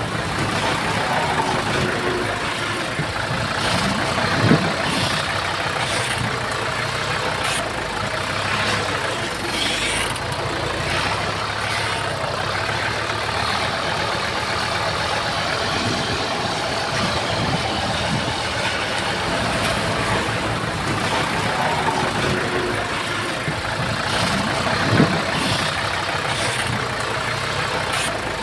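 Heavy diesel engine of earthmoving equipment running steadily, with scattered knocks and clanks and two louder thumps, one a few seconds in and one near the end.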